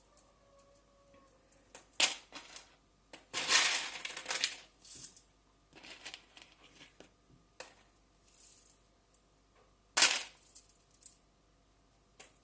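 Scattered sharp knocks and clinks of kitchenware being handled, with a longer crunchy rustle about three and a half seconds in and a sharp knock about ten seconds in.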